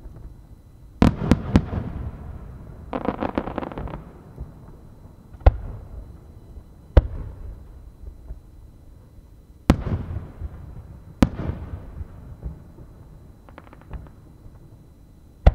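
Aerial firework shells bursting overhead: a string of sharp booms a few seconds apart, each trailing off in a rolling echo. Two dense runs of rapid crackling pops come in between, one about three seconds in and a shorter one near the end.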